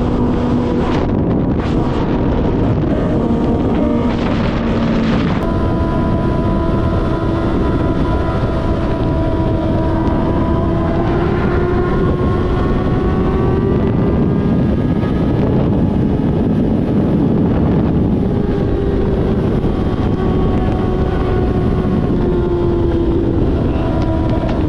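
Kawasaki ZX-6R's inline-four engine running at a steady cruising pace while riding, its pitch drifting slowly up and down, under heavy wind noise on the microphone.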